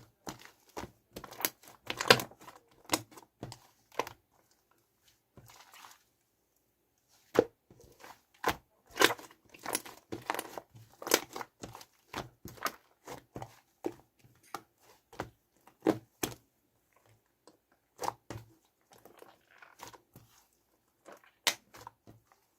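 Shaving foam being squeezed and mixed by hand: irregular sticky crackles and squishes that pause for a few seconds early on, then pick up again.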